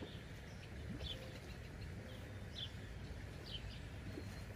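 Songbirds chirping in the surrounding trees: short, high, falling notes about once a second, over a steady low background hum.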